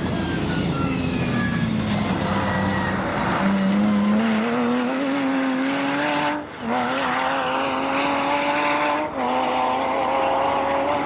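Porsche rally or hillclimb car's engine under hard use. The engine note falls over the first few seconds, then climbs as the car accelerates, with two upshifts about six and nine seconds in, each cutting the note briefly before it climbs again.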